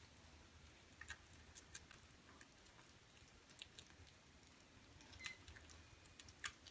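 Near silence, with faint scattered light clicks and scratches from small kittens moving about.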